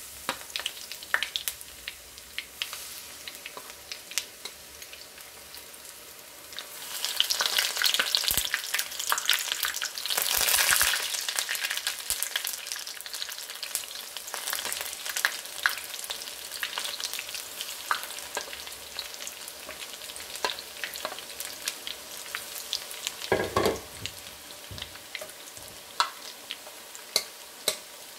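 Battered dureup (angelica-tree shoots) deep-frying in hot oil: a steady sizzle with many small crackling pops. It swells louder for a few seconds about a quarter of the way in, then settles back.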